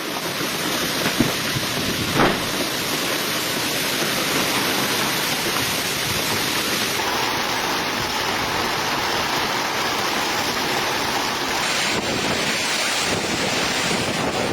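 Steady rushing noise of a rainstorm, with wind on the microphone.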